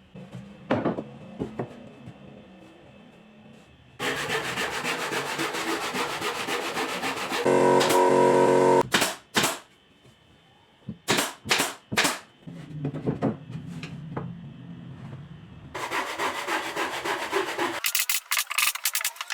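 Woodworking shop sounds cut together: long stretches of sanding or rubbing on wood, a brief loud run of a power tool's motor with a steady pitch, and a series of sharp knocks on wood.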